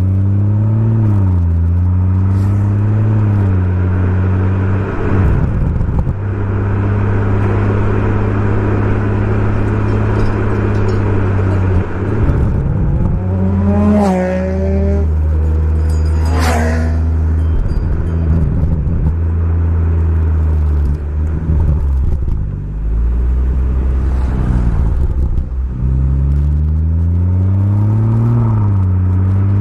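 Exhaust of a BMW M140i's turbocharged straight-six with an aftermarket Remus exhaust, on the move. The engine holds a steady pitch for long stretches, with its note rising and falling a few times near the start and again near the end. About midway there is a busier stretch with two quick rising sweeps.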